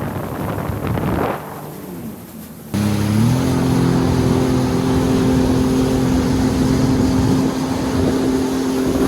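Wind rushing on the microphone at first. After a sudden cut, a motor engine comes in at steady speed, its pitch stepping up once shortly after and then holding steady.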